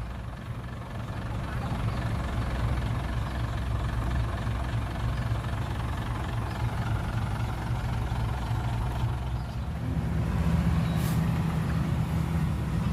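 Heavy diesel engine of earth-moving machinery running steadily; its note shifts and strengthens about ten seconds in, and there is a brief hiss around eleven seconds.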